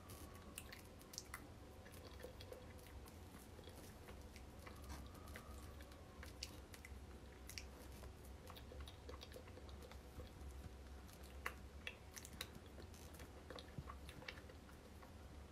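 Faint chewing and biting of cake: scattered small wet mouth clicks over a steady low hum.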